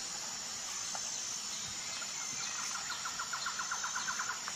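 Faint outdoor background hiss. About halfway through, a small bird gives a soft rapid trill of about eight short notes a second, lasting about two seconds.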